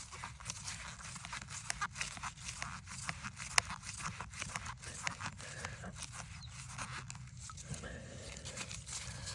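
Irregular crackling and rustling handling noises with scattered clicks; one sharp click comes a little past three and a half seconds in.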